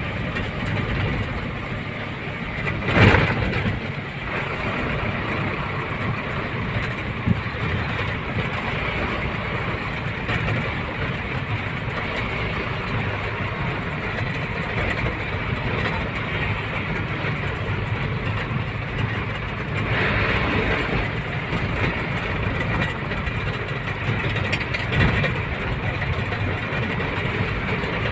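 Steady engine and road noise of a truck on the move, heard from inside the cab, with a loud bump about three seconds in.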